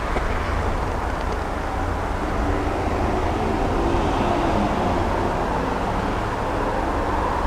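Steady low rumble of vehicle noise, with no clear change from start to end.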